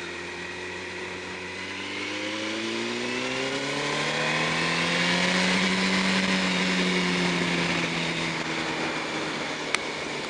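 Yamaha R1 inline-four engine under acceleration, its note climbing steadily for a few seconds and then easing slowly back down, with wind rushing over the rider's microphone.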